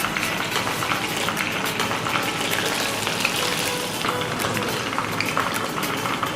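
Breadcrumb-coated chicken pieces deep-frying in hot oil in a kadai: a steady sizzle with fine crackles throughout.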